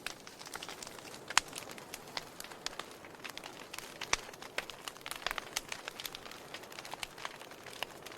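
Wood fire crackling: irregular sharp pops and snaps over a soft, steady hiss, the sharpest pops about a second and a half in and about four seconds in.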